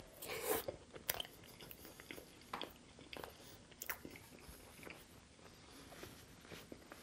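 A bite into a barbecue chicken sub about half a second in, then chewing with scattered wet clicks and smacks.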